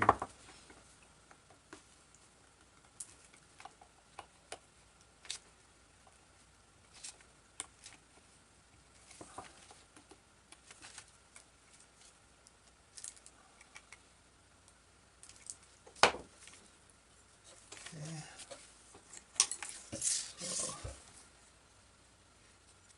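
Scattered small clicks and taps of small metal parts and hand tools being handled on a workbench while a motor is screwed onto its mount. The sharpest click comes about 16 seconds in, and a cluster of clicks and rustles comes near the end.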